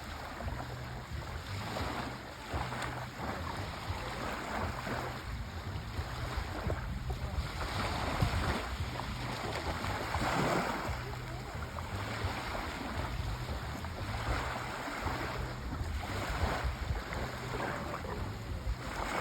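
Sea waves washing in, the wash swelling and fading in several surges, the biggest about ten seconds in, over a low rumble of wind.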